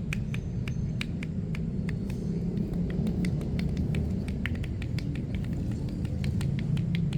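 Steady low rumble of street noise, with many light, irregular clicks and pats over it.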